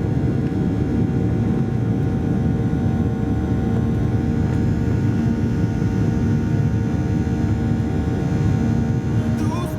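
Boeing 737-800 cabin noise in the climb after takeoff: the CFM56 engines' steady drone, with several held tones over a deep rumble.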